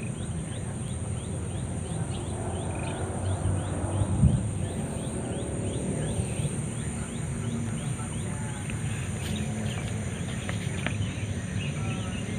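Rural outdoor ambience: a steady high insect drone with a rapid chirp repeating about three times a second, over a low rumble, and a single bump about four seconds in.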